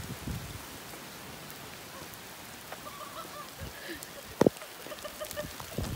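Steady rain falling on wet pavement, an even hiss, with one sharp knock about four and a half seconds in.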